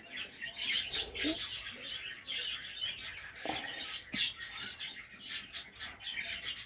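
Budgies chirping and chattering: many short, high chirps in quick succession, with a couple of soft knocks a little past halfway.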